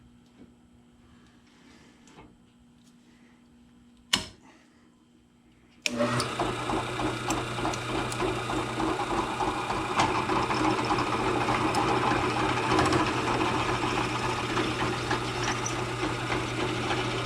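A sharp click about four seconds in, then a drill press motor starts abruptly about six seconds in and runs steadily with a low hum under rough cutting noise, as a 1/2-inch bit drills out a brake caliper bolt hole.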